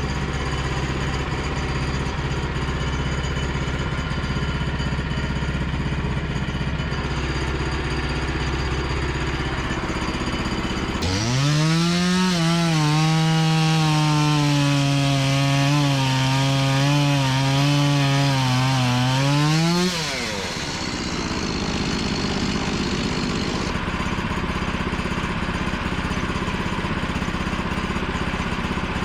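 Small gas engine of a Woodland Mills bandsaw sawmill idling, then throttled up about eleven seconds in and run hard for about nine seconds, its pitch sagging and wavering as the band blade cuts, before dropping sharply back to idle.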